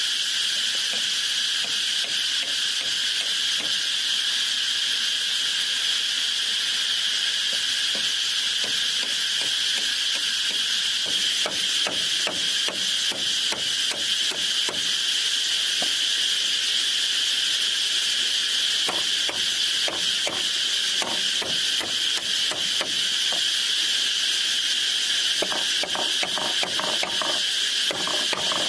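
Steady high buzzing of an insect chorus, with a run of short, light knocks starting about eleven seconds in that come thicker and faster near the end.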